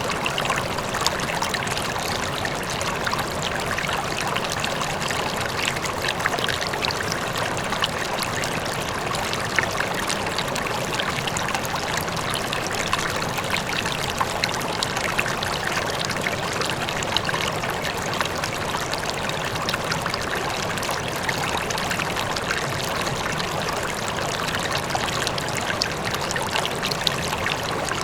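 River water flowing steadily over rocks, an even rush with fine trickling and splashing, and a distant waterfall blended into it.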